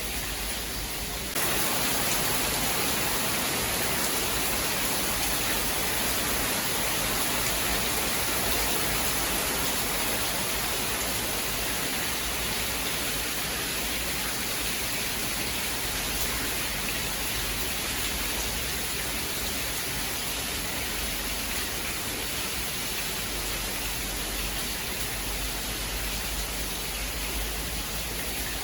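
Steady rain, an even hiss with no thunderclaps. The level steps up a little about a second in and drops back a couple of seconds before the end.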